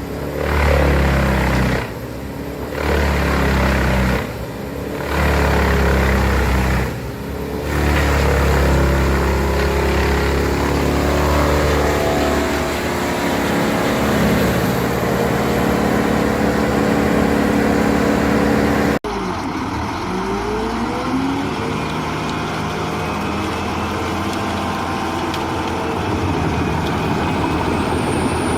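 Bandit 21 XP industrial wood chipper running under load as it chips a large hardwood log, the machine noise surging and dropping several times over the first few seconds before settling into steady chipping. About two-thirds of the way through, the sound cuts abruptly to a different, slightly quieter machine noise with a pitch that glides up and down.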